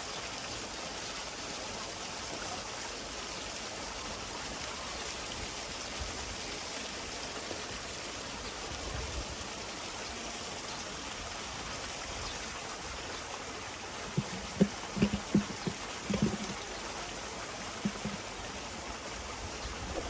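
Steady rush of running water, like a stream or water flowing into the pond. Several short, sharp knocks come close together about fourteen to eighteen seconds in.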